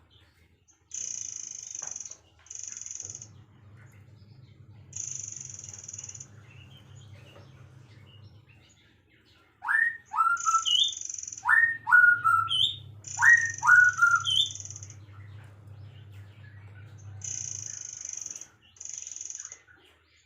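Birds calling: three loud pairs of quick rising whistles about a second and a half apart in the middle, among repeated short high-pitched buzzy trills and a low hum.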